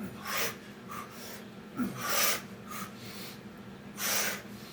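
A man breathing hard from exertion during Navy SEAL burpees: three heavy, forceful exhales about two seconds apart, with smaller breaths between.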